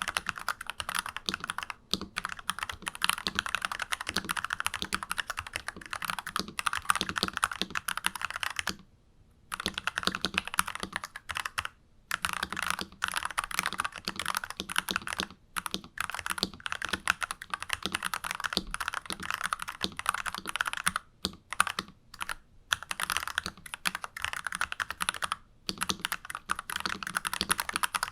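Fast continuous typing on a stock NuPhy Halo 96 mechanical keyboard fitted with unlubed Alpaca switches, a dense run of keystroke clacks broken by brief pauses, the longest about nine seconds in.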